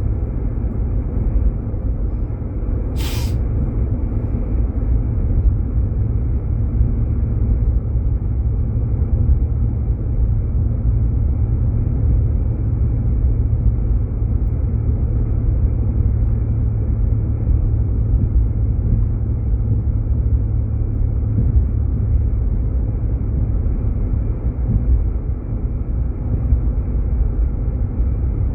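Steady low rumble of road and engine noise inside a Jeep Grand Cherokee driving on snow-covered roads, with a single short click about three seconds in.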